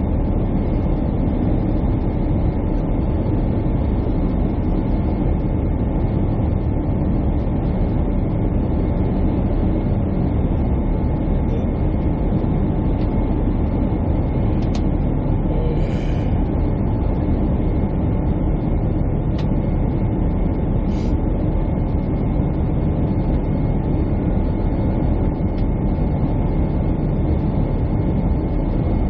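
Jet airliner cabin noise: a steady, loud low rumble of engines and airflow, with a faint steady hum above it. A few small clicks come about halfway through.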